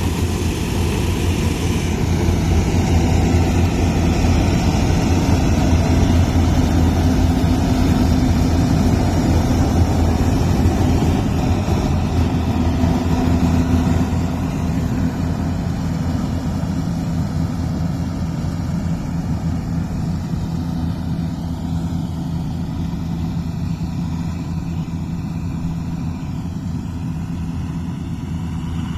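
Massey Ferguson 241 tractor's three-cylinder diesel engine running steadily under load, a little quieter from about halfway on.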